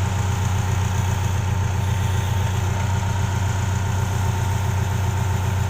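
Diesel engine of a tracked backhoe excavator running steadily, a constant low hum.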